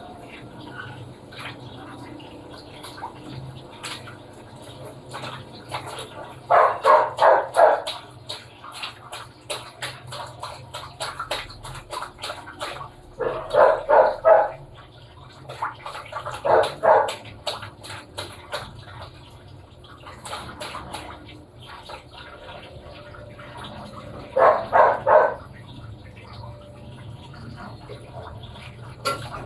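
Top-loading washing machine churning water in its tub with steady sloshing and a low motor hum. Several times, short runs of loud, rapid bark-like yelps break in, each run lasting about a second.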